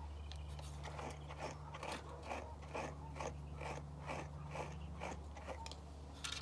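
A brush raking repeatedly through a Bichon Frise's curly coat, quick scratchy strokes about two to three a second, over a steady low hum.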